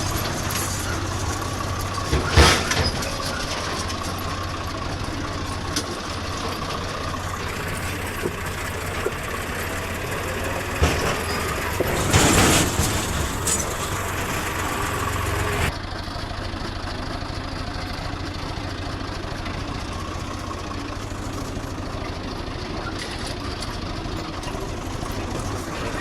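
Swaraj tractor's diesel engine running steadily at a low idle, with two brief louder bursts of noise about a quarter and halfway through.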